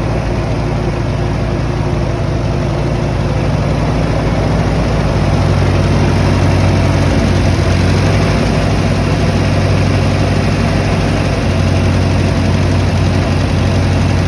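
Allis-Chalmers 170 tractor engine running steadily at idle, getting slightly louder about five seconds in.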